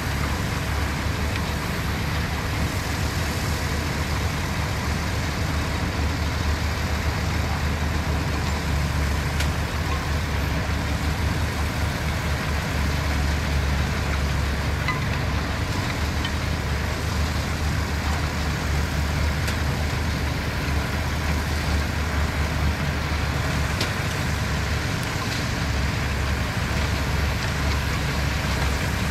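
Diesel engines of heavy construction machinery running steadily, a continuous deep drone with no breaks.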